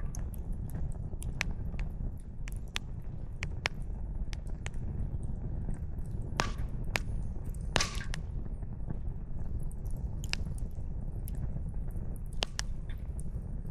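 Firewood crackling and popping in a campfire: frequent sharp snaps at irregular intervals, two louder pops near the middle, over a steady low rumble.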